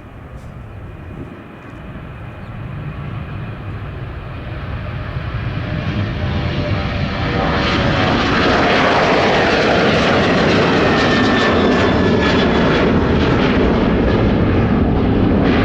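Jet airliner engines growing steadily louder over about eight seconds, then holding loud and steady, with whining tones that glide in pitch over the rush of the jet noise.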